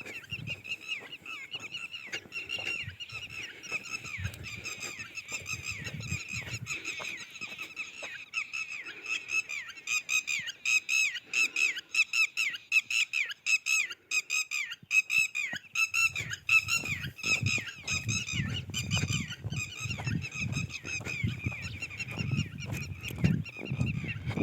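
Birds calling over and over in quick succession, many short falling calls that are loudest in the middle. A low rumble joins about two-thirds of the way through.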